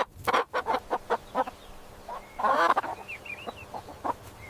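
Domestic chicken clucking: a run of short clucks, with one longer, louder call about two and a half seconds in, followed by a few faint high chirps.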